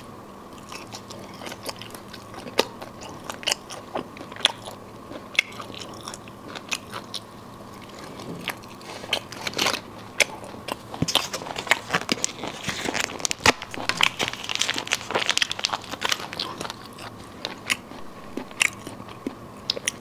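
Close-up chewing and biting of braised duck gizzard, with firm, crunchy clicks scattered through. In the middle, several seconds of denser crackling, like the individual snack packet being handled and opened.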